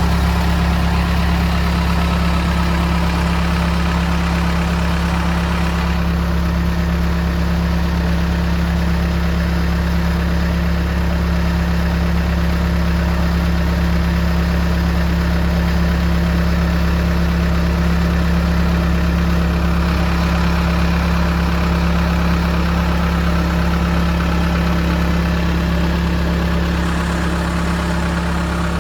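CASE 445 skid steer's diesel engine idling steadily.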